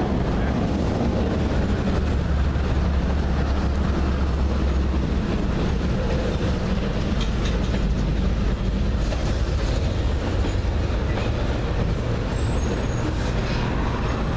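Freight train rolling past at close range: a low diesel locomotive drone, strongest in the first few seconds, over the steady rumble and clatter of the freight cars' wheels on the rails.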